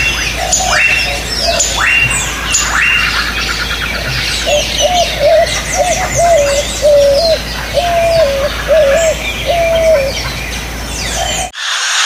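A chorus of several birds: a few sharp falling calls about a second apart, then a run of about eight short low notes, with many high chirps over them throughout. It cuts off suddenly near the end.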